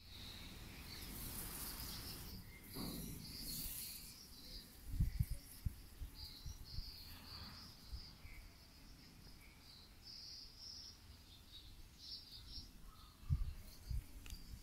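Birds chirping in short, repeated high calls. A cluster of brief low bumps comes about five seconds in and again near the end.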